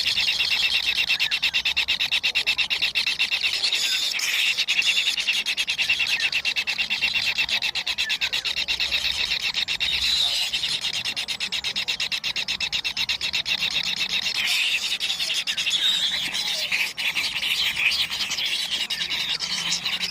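Kingfisher chicks begging: a continuous high, rapid trilling buzz, many pulses a second.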